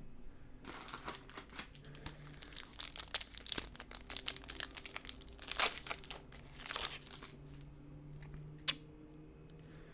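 Crinkling and rustling of a foil trading-card pack wrapper and cards being handled: a run of dense, irregular crackles for several seconds, then a single click near the end, over a faint steady hum.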